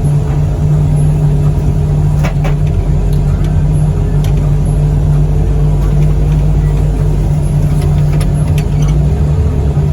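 Heavy machine's diesel engine running steadily as it drives across a rough junkyard, a low hum with a faint whine, plus a few scattered clicks and knocks.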